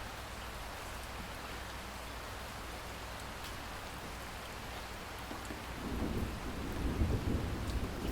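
Steady rain falling, an even hiss with faint scattered drop ticks. About six seconds in, a low rumble of thunder builds and grows louder.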